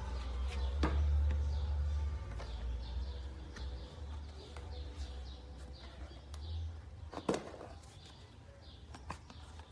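Small birds chirping repeatedly in the background over a low rumble, with a sharp click about a second in and another about seven seconds in.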